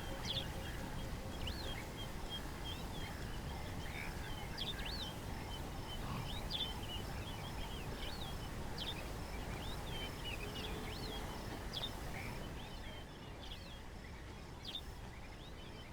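Many birds chirping and calling over a steady low background noise, the calls thinning out near the end.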